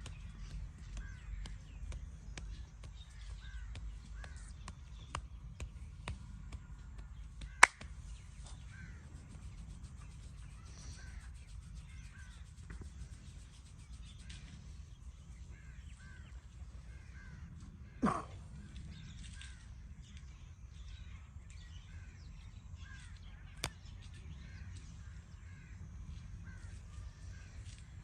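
Birds calling over a steady low rumble, with a sharp click about a quarter of the way in and a short, louder call about two-thirds of the way through.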